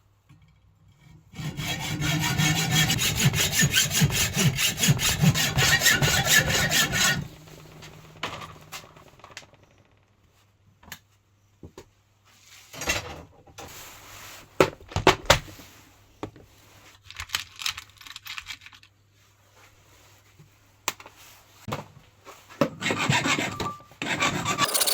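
Hand-tool rasping on metal, like sawing or wire-brushing, in quick repeated strokes for about six seconds. Scattered knocks and scrapes of tools and parts follow, and the rasping starts again near the end.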